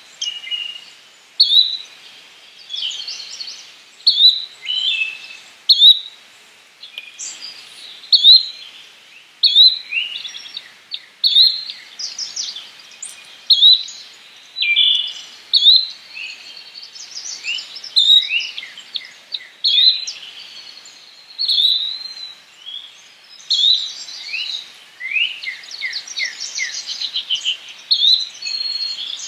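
Yellow-bellied flycatcher calling: a short rising whistled note repeated about every second and a half, with other chirps and quick falling notes mixed in, busier near the end.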